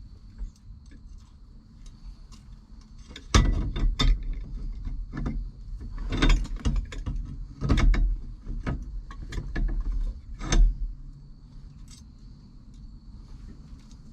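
Metal steering-wheel parts being handled and fitted onto a steering column: a run of sharp clicks, rattles and knocks from about three seconds in until nearly eleven seconds.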